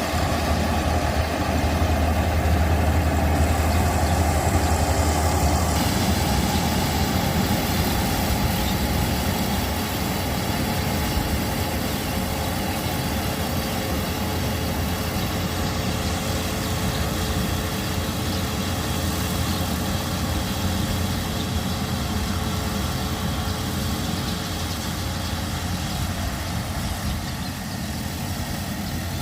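A steady engine drone with a strong low hum that drops away about six seconds in, after which the running sound carries on evenly.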